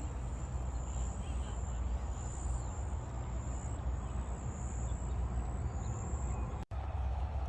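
Insects chirping in the park: a steady high-pitched chirping that swells and fades over and over, over a steady low rumble, with a brief dropout of all sound near the end.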